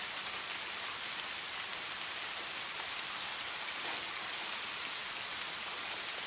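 Steady rain falling, a dense even hiss of drops with fine pattering ticks.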